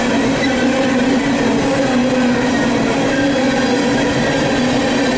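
Steel-wheeled CSX coal cars rolling steadily past at close range: a continuous loud rumble of wheels on rail with a steady hum running under it.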